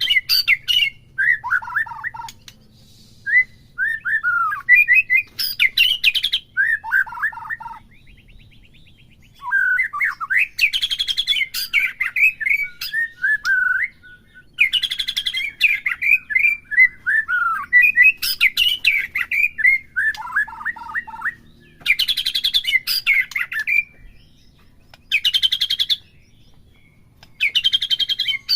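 White-rumped shama (murai batu) singing: phrases of whistled notes that slide down in pitch, alternating with short, rapid buzzy trills, with brief pauses between phrases.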